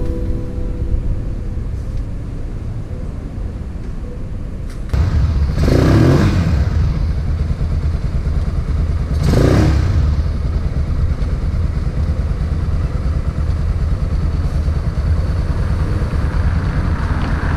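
Motorcycle engine running at idle, louder from about five seconds in, with two short revs about three and a half seconds apart.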